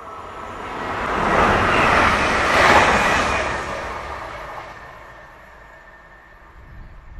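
Express passenger train passing at speed: a rush of wheel and air noise that swells over about two seconds, peaks about three seconds in, then fades away by about five seconds in.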